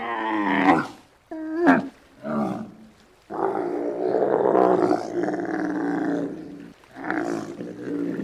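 Giraffe calls: several short pitched calls in the first three seconds, then one long, rough call lasting about three seconds, and another short call near the end.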